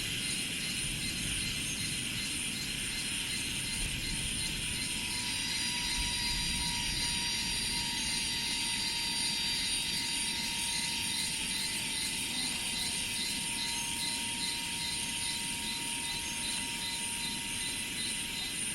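Rice-field ambience: an insect chorus of cicadas or crickets buzzing in fast, even pulses high up, over a low, steady rumble. A faint thin tone joins about five seconds in and fades near the end.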